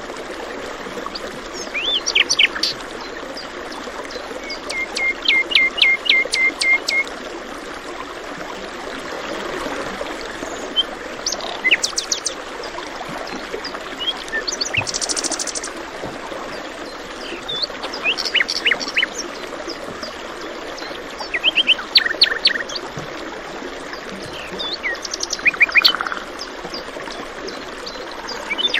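Small songbirds chirping and singing in short scattered phrases, one giving a quick run of about ten repeated notes, over the steady rushing of a running stream.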